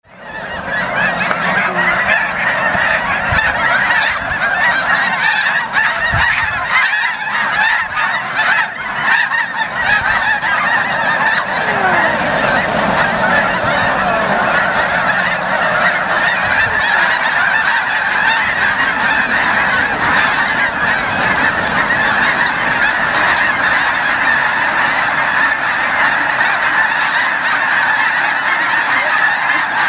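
A huge flock of snow geese calling all at once, a dense, unbroken chorus of honks that fades in within the first second and then holds steady.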